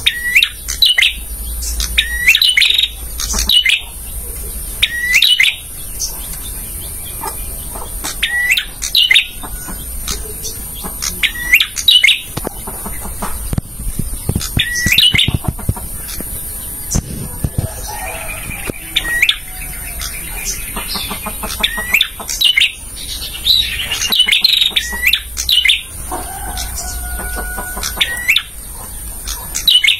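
Male prenjak singing: loud, sharp sweeping chirps repeated about once every second or so, turning into a busier, more varied twittering in the second half, over a steady high hiss.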